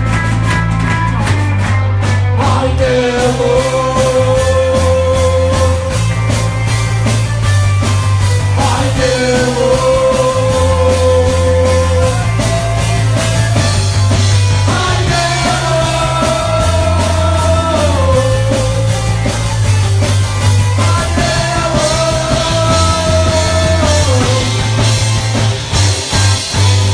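Live rock band playing: a steady drum beat and a repeating bass figure under long, held lead notes that slide between pitches.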